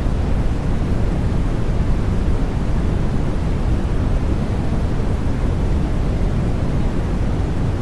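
Steady baby-sleep white noise: an unbroken deep rushing hiss, heavy in the low end and soft in the highs, with no change in level or pitch.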